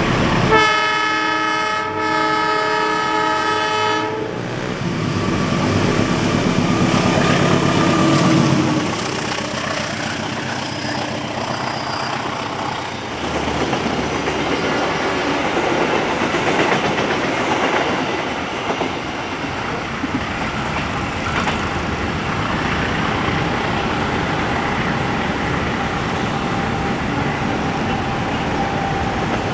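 Diesel-electric locomotive sounds its multi-tone air horn for about three and a half seconds. Its engine then passes, followed by a long rake of passenger coaches rolling by with steady wheel-on-rail noise and clicking over the rail joints.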